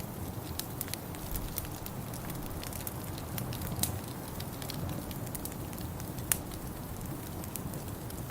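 Wood fire crackling, with scattered sharp pops over a steady low rumble. One pop about six seconds in stands out as the loudest.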